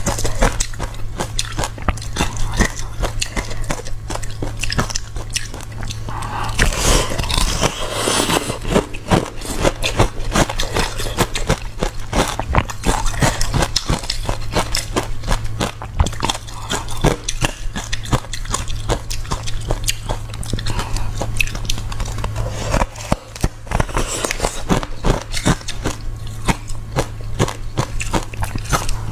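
A person chewing crunchy ice, a continuous run of sharp crackling crunches as the ice breaks between the teeth, over a steady low hum.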